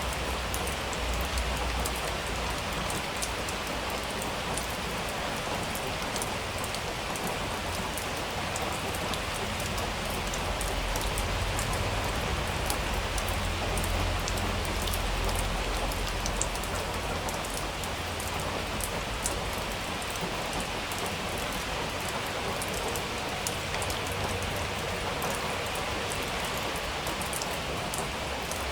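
Steady rain falling, with many individual drops ticking sharply through it, and a low rumble that swells slightly in the middle.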